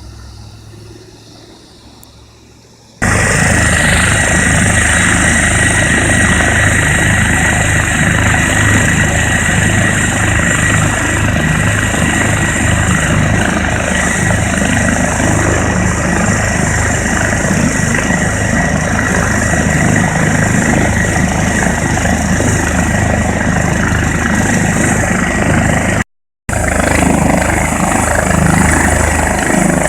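Air ambulance helicopter running close by: a steady turbine whine over the low, pulsing throb of the rotor blades. The sound cuts in suddenly about three seconds in after a quieter stretch, and drops out for a moment near the end.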